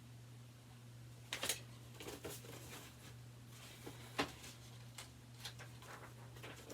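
Pages of a picture book being turned and handled: a scatter of soft paper rustles and small taps over a low steady hum.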